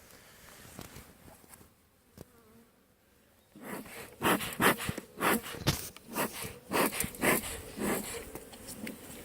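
Honeybees buzzing around an opened hive. After a quieter start, bees pass close by in a quick string of loud buzzes, about two a second, from about four seconds in.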